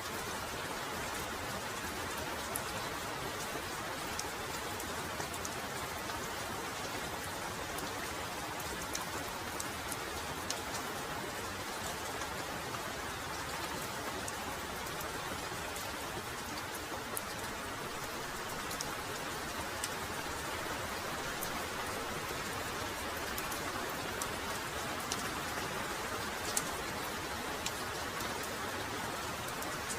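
Heavy rain falling steadily, with many scattered sharp drop ticks over an even hiss.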